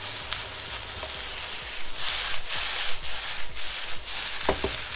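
Fried rice sizzling in a hot oiled wok over high heat as it is stir-fried and tossed. The sizzle swells in several loud pulses about halfway through.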